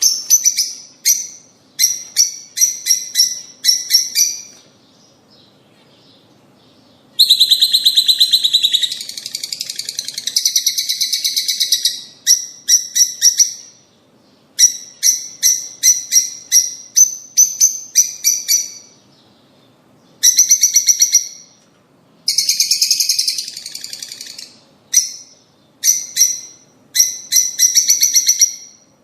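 Rosy-faced and Fischer's lovebirds chirping: loud, shrill chirps repeated rapidly in bursts of a second or two, broken by brief pauses, with one longer run of calling about seven to twelve seconds in.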